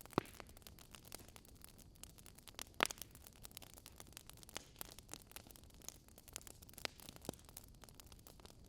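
Logs burning in a wood fire, crackling with irregular sharp pops over a soft hiss; two louder pops, one just after the start and one about three seconds in.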